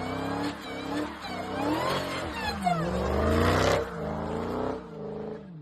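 Dodge Charger engine revving up and down several times, with a whine over the engine note.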